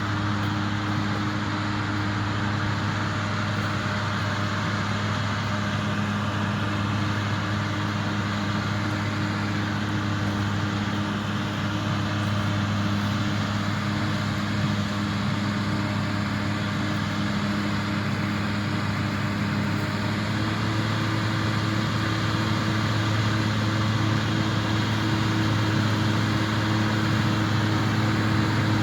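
Farm tractor engine running steadily while hauling manure, a constant low hum whose pitch steps up slightly about two-thirds of the way through.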